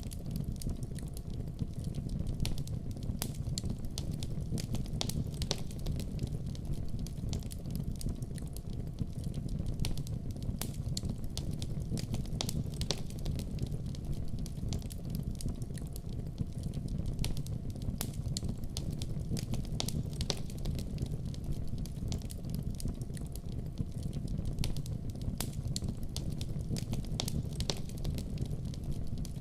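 Fire burning in a fireplace: a steady low rumble of flames with frequent sharp crackles and pops, irregularly spaced.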